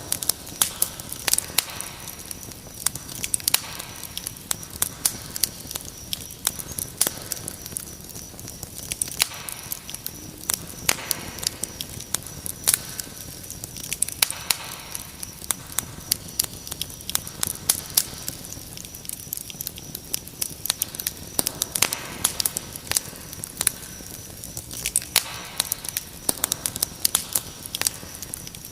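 Wood fire crackling, with frequent sharp pops and snaps, over a steady high-pitched cricket trill.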